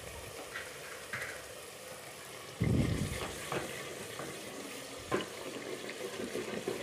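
Tomato-and-spice masala sizzling in oil in an aluminium pot, the oil having begun to separate, the sign that the masala is cooked; a wooden spoon stirs and knocks against the pot a few times. About two and a half seconds in, a louder burst of sizzling as potato pieces go into the hot oil.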